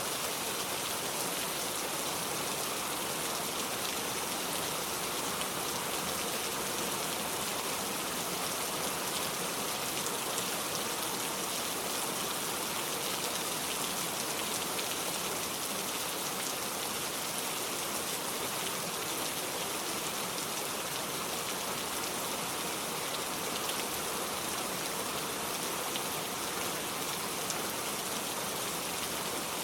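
Steady rain falling, an even hiss of rain with faint scattered drop ticks.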